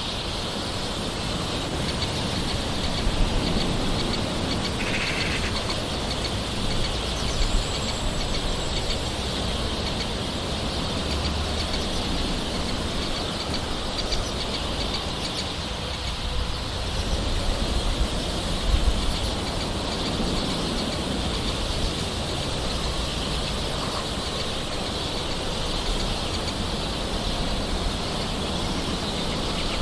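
Soft, steady rain with a constant hiss, and occasional short bird calls over it, one about five seconds in.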